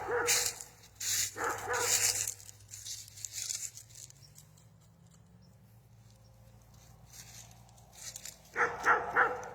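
Dog barking: a few barks at the start, then a quick run of three barks near the end.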